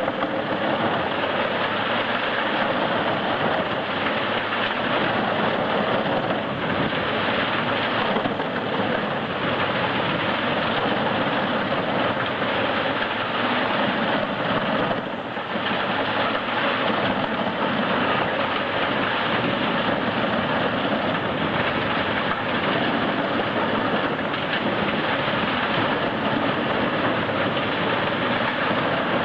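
Industrial forestry wood chipper running steadily: its engine and chipping drum make a dense, continuous mechanical noise, with a brief dip about halfway through.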